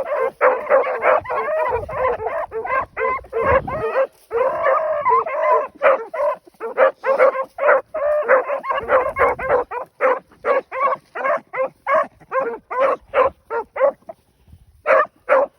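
A pack of rabbit hounds baying and barking rapidly, several voices overlapping, as they run a rabbit track. The calls break off briefly near the end, then start again.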